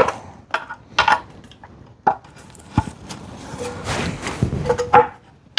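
Scattered clicks and knocks of hand tools and metal engine parts being handled, with a stretch of rubbing and scraping about halfway through.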